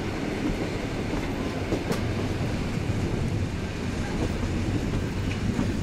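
A passenger train running along the line, heard from a carriage window: a steady rumble of wheels on rails with an occasional sharp click, one about two seconds in.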